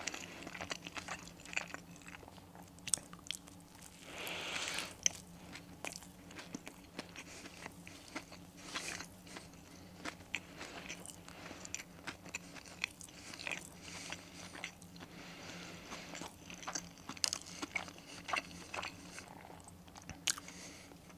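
A person biting and chewing a crispy breaded chicken burger close to the microphone: scattered soft crunches and crackles, denser about four seconds in, over a faint steady hum.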